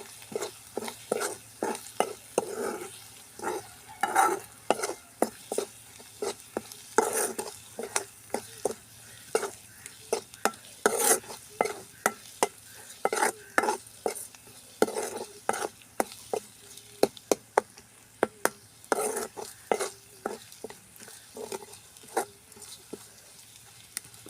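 Egg being scrambled with onion and masala in hot oil: a steady sizzle under the quick, irregular scrape and knock of a spatula stirring against the pan, about two or three strokes a second.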